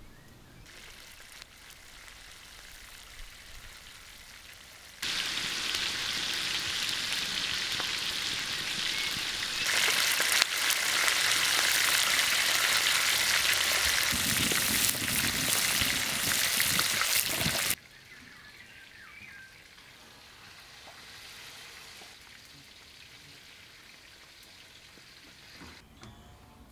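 Food sizzling as it fries in a hot pan. The sizzle starts abruptly about five seconds in, grows louder near ten seconds, and cuts off suddenly near eighteen seconds, leaving only a faint hiss.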